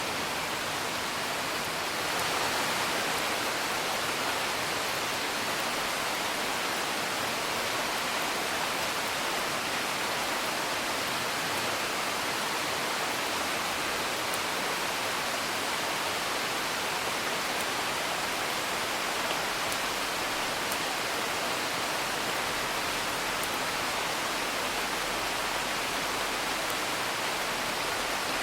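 Steady rain falling, an even hiss, with a few faint crackles from a wood fire.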